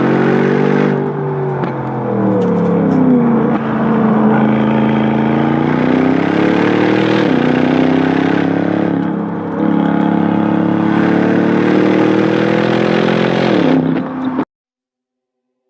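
Aston Martin DBX 707's twin-turbocharged 4.0-litre V8 accelerating hard, its exhaust note climbing in pitch through the revs, with sudden drops at upshifts twice. The sound cuts off suddenly near the end.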